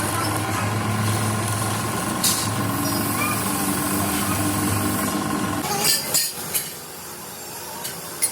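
Machinery running with a steady low hum that stops about six seconds in, followed by a few sharp knocks.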